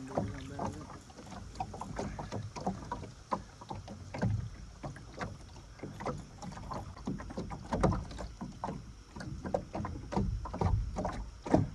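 Irregular knocks and taps aboard a small fishing boat, with a low rumble underneath.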